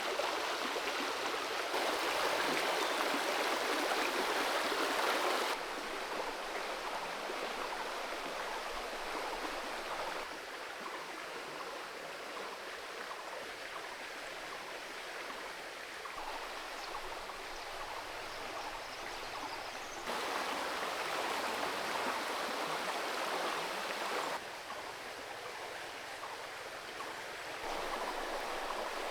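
Creek water running over rocks: a steady rushing noise whose loudness jumps abruptly up and down several times.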